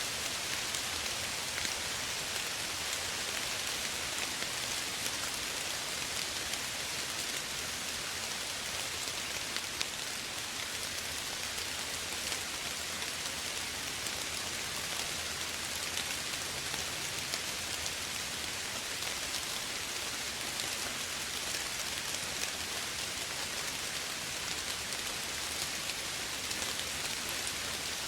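Steady soft rain falling, an even hiss with scattered drops pattering on a surface.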